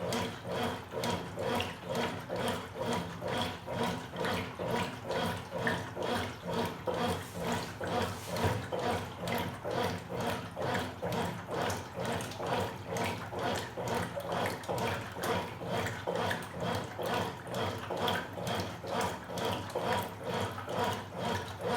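Top-loading washing machines agitating in the wash stage: water sloshing in a regular back-and-forth rhythm about twice a second, over a steady motor hum.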